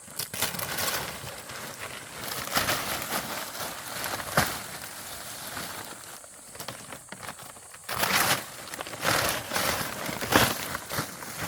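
Leaves rustling and crackling in irregular bursts as they are handled, with two sharp knocks, one about four seconds in and one near the end.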